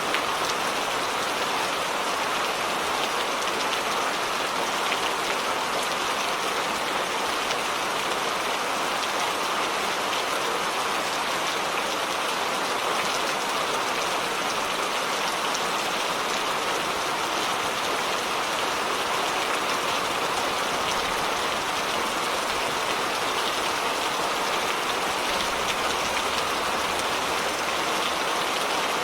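Steady rain falling: an even, unbroken hiss of countless drops at a constant level.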